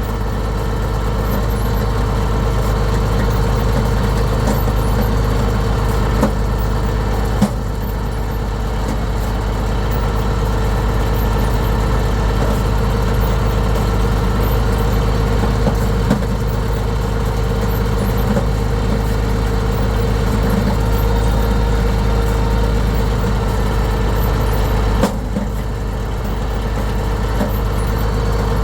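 International 1066 tractor's diesel engine running steadily at an even speed, with a few light knocks over it.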